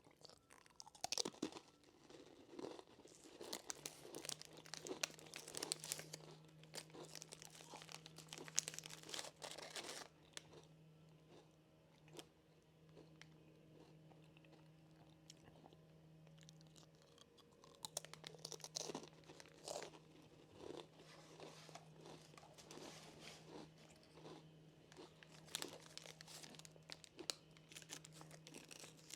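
Close-up crunching and chewing of crisp snacks, in two bouts of bites with a quieter stretch of several seconds between them.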